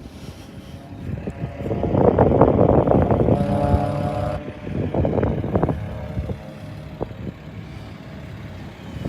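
Jet fighter engine roar swelling about a second in, loudest from about two to four seconds with a brief hum, then easing off as the aircraft passes.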